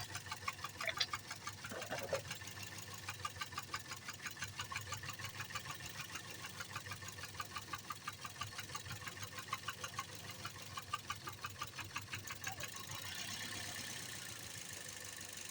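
Toyota Yaris 2NZ inline-four engine idling with an even ticking pulse, about four or five a second, which fades under a steadier hiss about thirteen seconds in. The engine still has its misfire after the ignition coils were swapped between cylinders, so the coils are not the fault.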